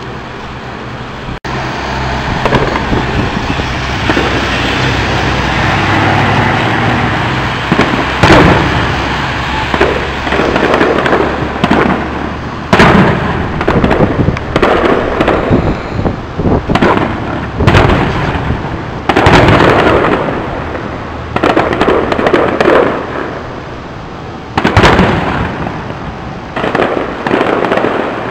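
Public fireworks display: aerial shells bursting with loud bangs every few seconds, with smaller crackling reports in between.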